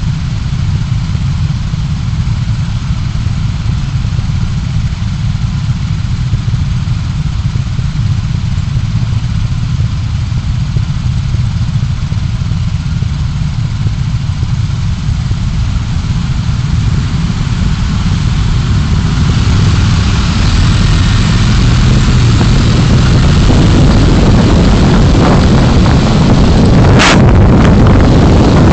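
A car being driven, with steady engine and road noise picked up by a dashcam. It grows louder and fuller about two-thirds of the way in, and there is a sharp click near the end.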